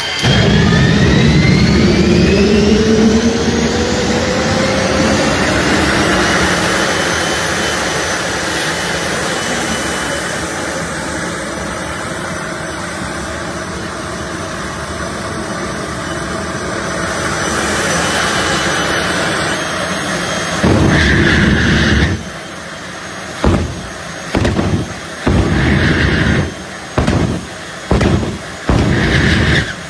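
Jet car's turbine engine spooling up with a rising whine, then running loud and steady. About two-thirds of the way through it breaks into a series of short, loud blasts, coming faster near the end, as the engine is throttled in a show run.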